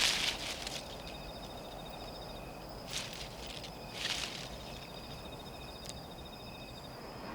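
Insects trilling steadily, several high continuous trills layered together, one with a fast pulsing. Three brief soft rustles come through, at the start, about three seconds in and about four seconds in.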